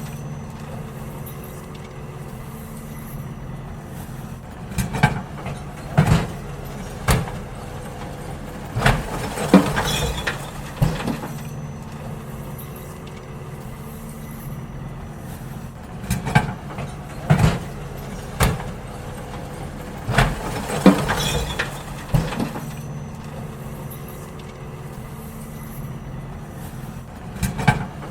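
Garbage truck's engine running steadily, with groups of loud clunks and bangs every few seconds as wheelie bins are lifted and emptied into it.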